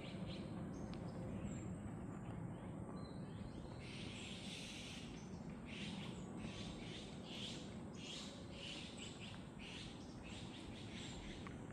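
Birds calling in a forest with short high chirps, over a steady low rumble; from about four seconds in, a run of repeated hissy high bursts joins them.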